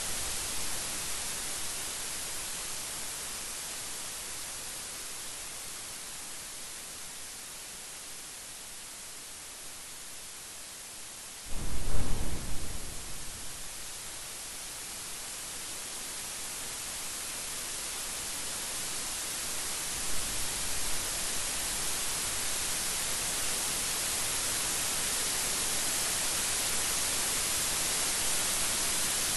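Steady rain hissing, easing for a while and then building again, with a sudden loud thunderclap about a third of the way through that rumbles away within a few seconds. A fainter thunder rumble comes later on.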